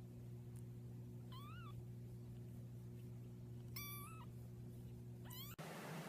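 A cat giving three short, high meows, spaced a couple of seconds apart, over a steady low hum. The hum cuts off suddenly near the end.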